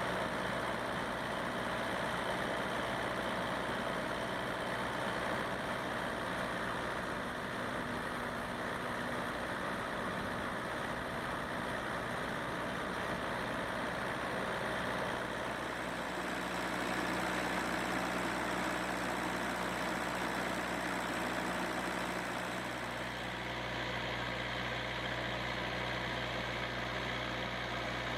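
Kubota V2203 four-cylinder diesel engine running steadily at idle, its tone shifting slightly near the end.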